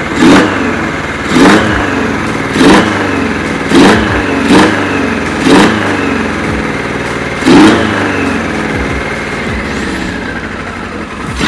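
Kawasaki KZ1000 air-cooled inline-four motorcycle engine running, its throttle blipped again and again: about seven quick revs, each rising and dropping back to a fast idle, roughly one a second.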